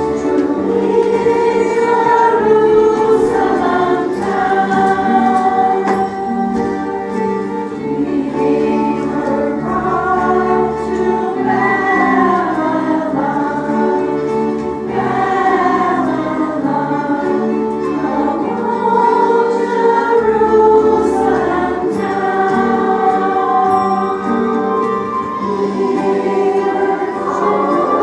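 A choir singing a song in unison with musical accompaniment.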